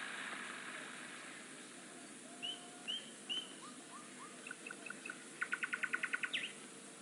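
A small songbird singing: a few short curved chirps, then a quick run of about ten even notes ending in an upward flourish. A faint steady hiss fades out over the first couple of seconds.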